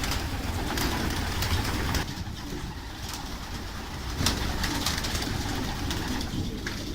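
Domestic pigeons in a loft cooing, with scattered short taps and flutters from the flock moving about.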